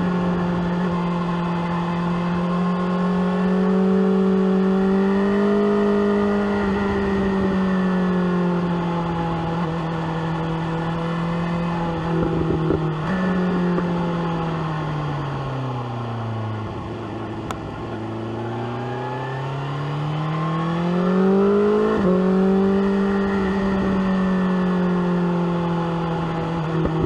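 BMW S1000R inline-four sportbike engine and exhaust under way, heard from the rider's position. It holds a steady pitch for about twelve seconds, shifts gear, drops in pitch as the bike slows, then climbs again as it accelerates out, with another gear change near the end.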